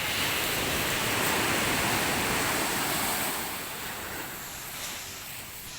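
Ocean surf: a wave breaking and rushing up the sand, a broad rush that swells at the start, holds for about three seconds, then eases off.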